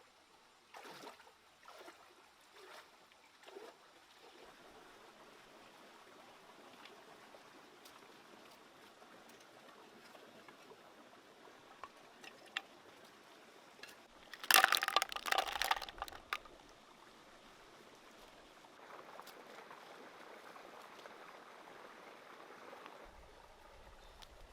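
Water being handled: sloshing and pouring, with a few soft knocks early on and a louder burst of splashing a little past the middle.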